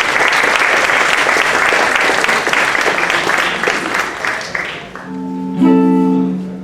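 Audience applauding, dying away about five seconds in; then a guitar begins playing, with a plucked chord ringing out near the end.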